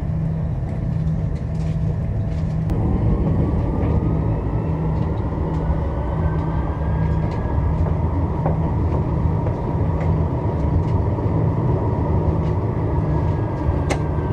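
Strasbourg Eurotram running, heard from on board: a steady rumble of wheels on the rails, with the traction motors' whine rising slowly in pitch about three seconds in and again near the end.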